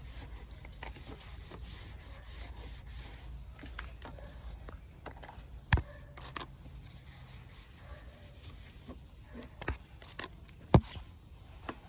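Cloth wiping and rubbing detail spray over a motorcycle, a soft scraping sound, with scattered clicks and a few sharp knocks, the loudest about six and eleven seconds in.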